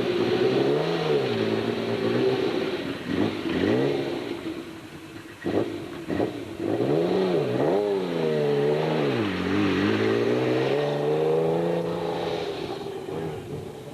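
Rally car engine revving hard, its pitch climbing and dropping again and again through gear changes and lifts off the throttle, with a sharp crack about five and a half seconds in.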